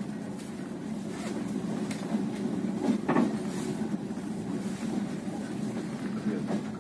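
Passenger train carriage running along the track, heard from inside: a steady low rumble with a few short wheel knocks, the loudest about three seconds in.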